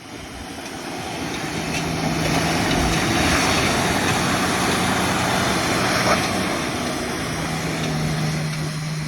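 Pickup truck driving, its engine pulling steadily with a low hum under a broad rush of tyre and wind noise that builds over the first couple of seconds.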